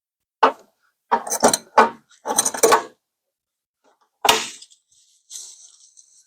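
Metal hand tools clinking and clattering against each other: a quick run of knocks over the first three seconds, a sharper knock about four seconds in, then a brief high scraping hiss near the end.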